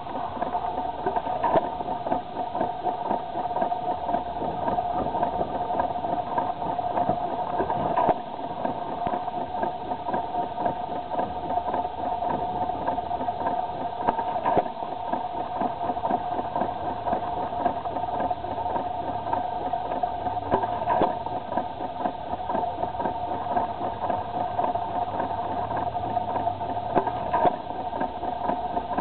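Detroit hit-and-miss stationary engine running, with a steady hum, a dense patter underneath, and a sharper knock about every six or seven seconds.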